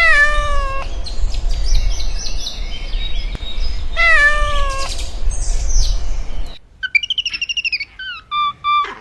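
A cat meowing twice, each call about a second long and falling in pitch, at the start and about four seconds in, over a low rumble. The rumble cuts off at about six and a half seconds, and from about seven seconds a bird chirps in a run of quick short notes.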